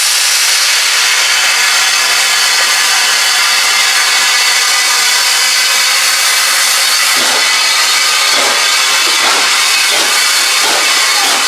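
A steam locomotive hisses loudly and steadily as steam escapes. About seven seconds in, a rhythm of exhaust beats starts under the hiss, roughly two to three a second, as the engine begins to work.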